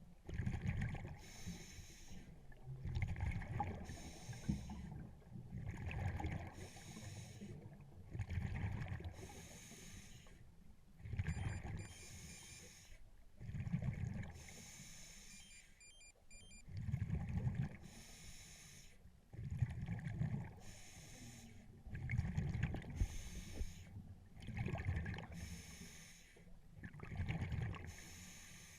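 A scuba diver breathing through a regulator underwater: hissing inhalations alternate with low, bubbling exhalations, about one every one to two seconds.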